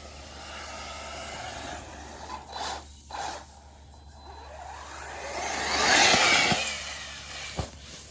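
Electric RC racing buggy driving past: the motor whine rises in pitch as it approaches, is loudest about six seconds in, then falls away. A short sharp knock comes near the end.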